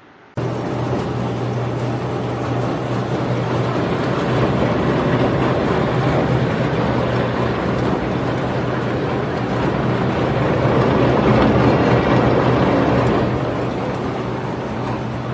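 Potato peeling and washing machine running: a steady motor hum under a dense, even mechanical noise. It comes in abruptly at full level, grows louder around ten seconds in, and eases off near the end.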